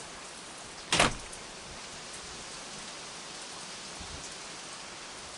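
Steady rain falling, with one brief, sharp, loud noise about a second in.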